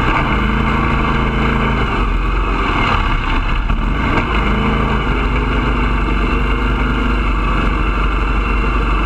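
Bandolero race car's single-cylinder Briggs & Stratton engine running steadily at low speed, heard from inside the cockpit, its pitch shifting slightly about four seconds in.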